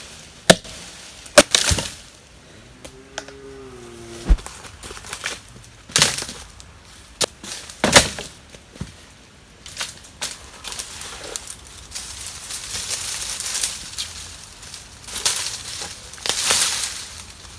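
Wood being chopped and broken by hand: irregular sharp strikes and cracks, several in the first half, then a stretch of crunching and rustling in the second half.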